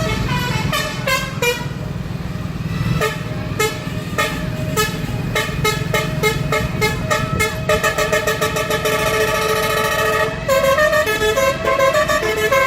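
Train horn sounding a long run of short pitched toots that step up and down in pitch, quickening to about four or five a second partway through, over a low rumble in the first half.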